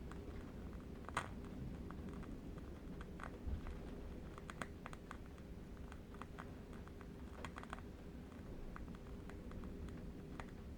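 Faint, irregular soft clicks, scattered singly and in short quick runs, over a low steady rumble and a faint hum.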